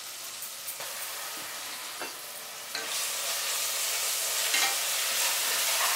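Onions, tomatoes and ginger-garlic paste sizzling in hot oil in an aluminium pressure cooker. The sizzle grows louder a little under three seconds in.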